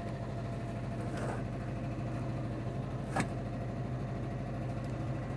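1979 Volkswagen Type 2's 2.0-litre fuel-injected air-cooled flat-four idling steadily, with a single sharp click about three seconds in. The clutch bearing whine is drowned out by the engine.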